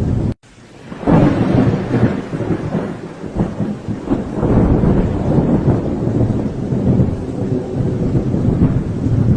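Thunder rumbling steadily with rain falling. The sound cuts out abruptly just under half a second in and swells back in about a second in.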